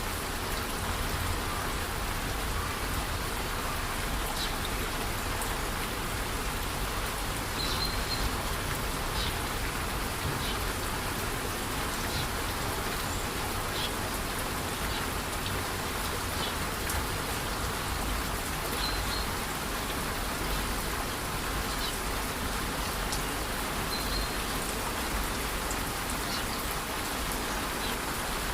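Rainforest waterfall in light rain: a steady, even rush of falling water with scattered drop ticks, and a few short high chirps.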